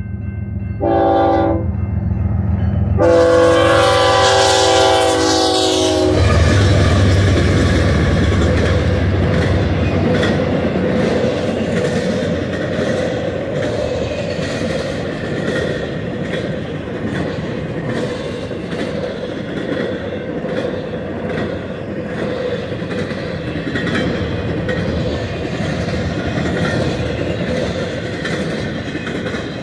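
Freight train horn on the lead GE ES44C4 locomotive sounding a short blast, then a longer one of about three seconds, over the rumble of the approaching diesel locomotives. Then the locomotives pass close by, and a string of spine cars carrying truck trailers and containers rolls past with a steady rumble and the regular clickety-clack of wheels over rail joints.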